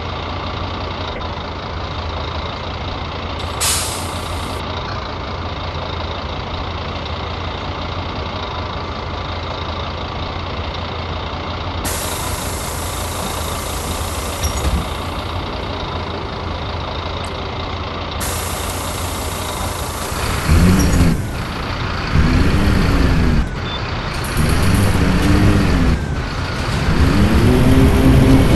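Scania city bus engine idling, with a short sharp air hiss about four seconds in and longer hissing of released air twice around the middle. In the last third the engine revs up and drops back four times as the bus pulls away and shifts up through the gears.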